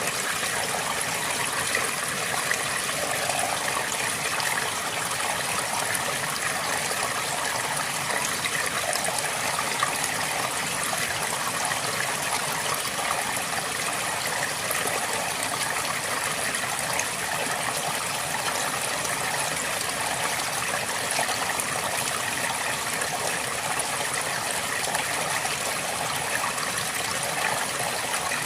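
River water flowing steadily over rocks: an even, unbroken rush with fine trickling and bubbling detail.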